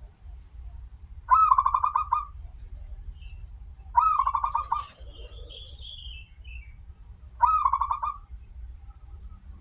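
Zebra dove (perkutut) cooing: three song phrases about three seconds apart, each a short rising opening note followed by a quick run of pulsed coos. A faint higher chirp sounds between the second and third phrases, over a steady low rumble.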